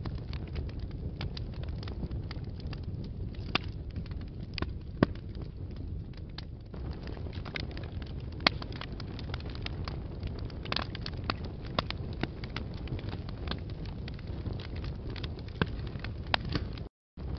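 Wood fire burning in a fireplace: a steady low rumble with frequent sharp crackles and pops, a few of them louder than the rest. The sound cuts out for a split second near the end.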